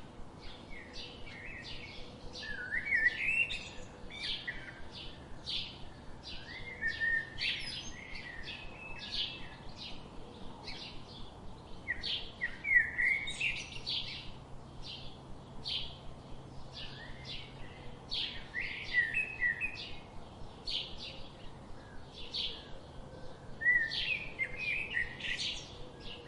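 Small birds chirping: a dense, continuous run of short high chirps and tweets, mixed with a few brief rising whistles.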